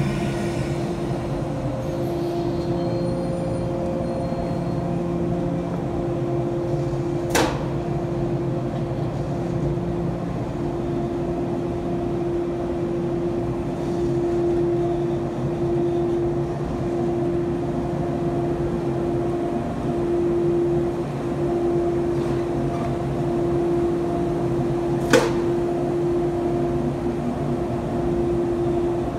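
A JR East 485-series train standing at a platform, its on-board electrical and air-conditioning equipment humming steadily on a constant tone. Two short sharp clicks come about 7 seconds and 25 seconds in, the second louder.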